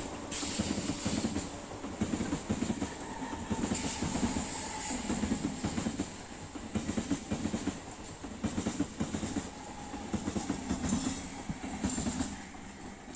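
Passenger train coaches running past, their wheels clattering over the rail joints in a steady rhythm of about once a second. The sound fades near the end as the last coach goes by.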